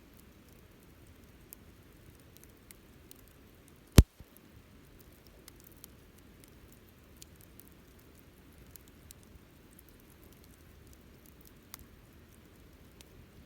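Wood campfire crackling, with sparse small snaps and one sharp loud pop about four seconds in, over a soft low background noise.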